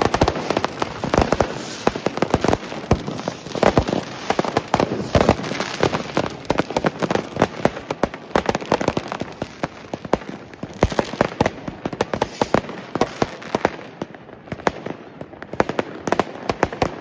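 New Year's fireworks and firecrackers going off in a dense, irregular stream of bangs and crackles, a little sparser near the end.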